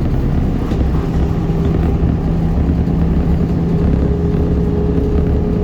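ZiU-682G trolleybus under way: a steady low rumble of the bus rolling, with a steady electric hum running under it.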